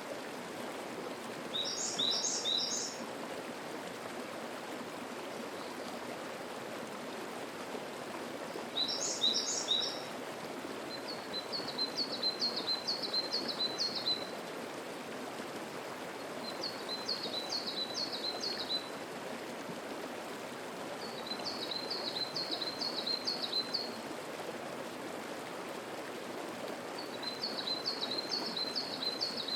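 Mountain stream flowing steadily over rocks, with songbirds singing above it: two short, high, busy phrases near 2 s and 9 s, then a bird repeating a phrase of about seven quick high notes four times, every few seconds.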